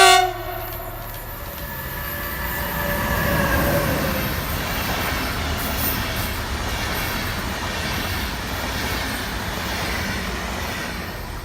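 A train passing on the track, with rolling rail noise and squealing wheels. It opens with a sudden short loud tone, and the noise builds to its loudest about three to four seconds in, staying strong until near the end.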